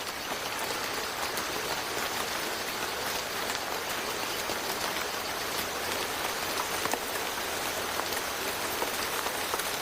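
Heavy tropical rainforest rain falling steadily: a dense, even hiss with scattered ticks of individual drops.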